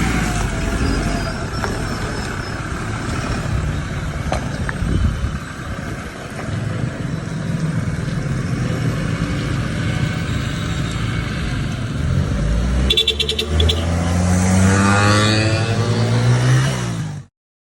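Toyota Hilux 4x4 engine running, revving with a climbing pitch about three quarters of the way through, then cutting off suddenly near the end.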